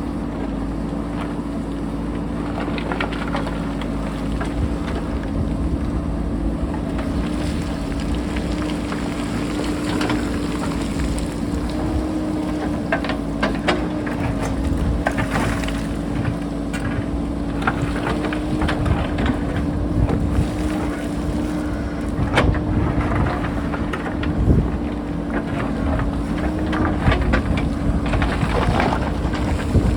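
JCB backhoe loader running steadily with a held, even hum, while the bucket gives short, scattered knocks and scrapes as it cuts into rock.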